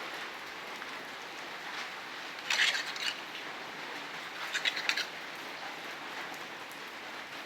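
Steady rain falling, with two short louder bursts of a rapid high rattle about two and a half and four and a half seconds in.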